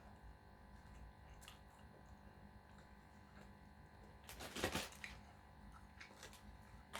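A person eating quietly: faint mouth clicks, with one short, louder crackle about four and a half seconds in.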